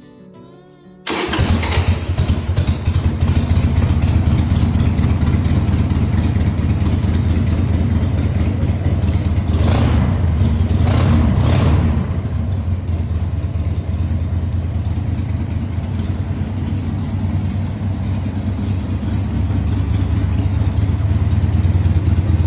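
Motorcycle engine running with a deep, steady rumble, coming in abruptly about a second in, with a brief rise in intensity around ten to twelve seconds in.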